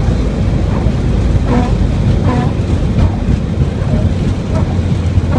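Boeing 737-800 flight-deck noise during the landing roll on a wet runway: a loud, steady low rumble with rushing air and rain noise.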